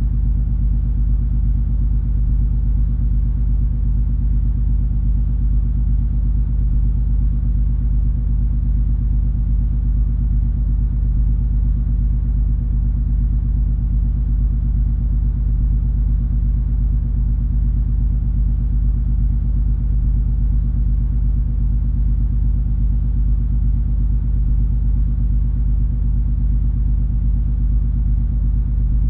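Steady low drone of the MS Color Magic cruise ferry's engines and machinery heard on board while under way: a deep rumble with several steady low hum tones, unchanging throughout.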